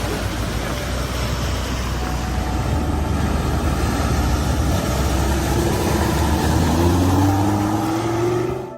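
A car driving, its engine running under heavy road and wind noise, with the engine note rising steadily over the last few seconds. The sound cuts off suddenly at the end.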